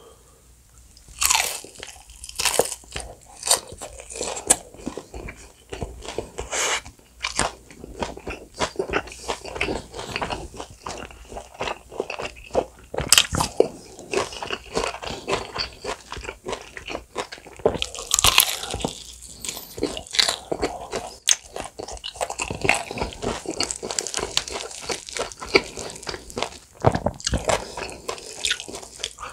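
Biting and chewing into sauce-glazed bone-in fried chicken: repeated crisp crunches of the fried coating with chewing in between, starting about a second in.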